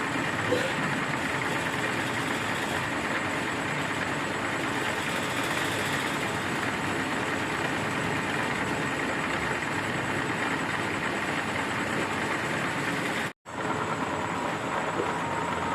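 Milling machine running steadily, an even mechanical hum and hiss with a faint high whine. The sound cuts out briefly about 13 seconds in.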